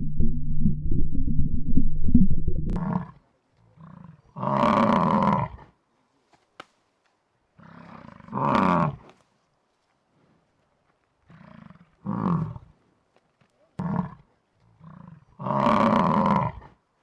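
A big cat roaring: four loud calls of about a second each, a few seconds apart, with shorter, quieter calls between them. A low rumble runs under the first three seconds and stops.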